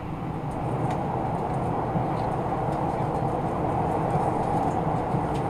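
Passenger train running along the line, a steady rumble of wheels on rail and car-body noise that grows slightly louder about a second in.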